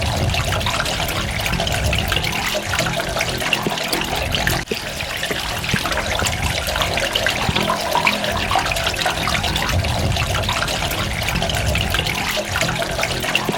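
Running water splashing steadily, full of small droplet ticks, with a brief dip in level about four and a half seconds in.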